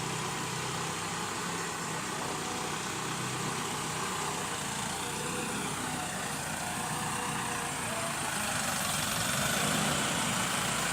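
Truck engine running steadily, growing slightly louder about eight seconds in.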